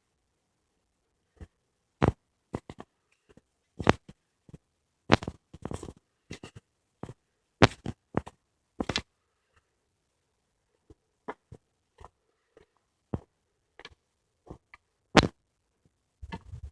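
Footsteps on a woodland path: scattered sharp cracks and crunches, like twigs and dry leaves underfoot. They come at irregular intervals, sparser and fainter for a couple of seconds in the middle.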